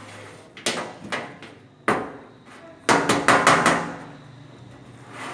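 Several separate sharp knocks, then a quick run of clattering about three seconds in, as small hard objects are handled and set down on a surface.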